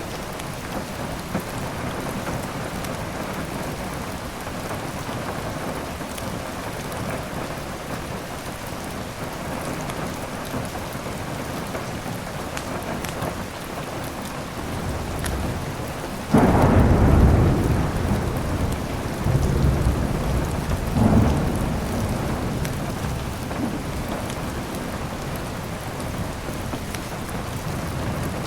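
Steady heavy rain with a sudden close thunderclap a little past halfway, rumbling on in a few swells for several seconds before fading back under the rain.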